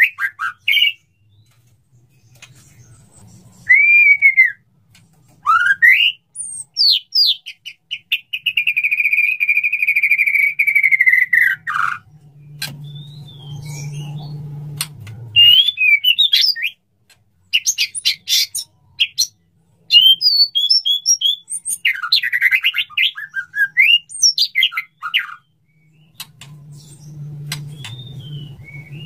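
A male white-rumped shama singing its courtship song to a female: varied whistled phrases, quick chirps and sharp clicks, with one long held whistle in the middle. A low hum sits underneath twice.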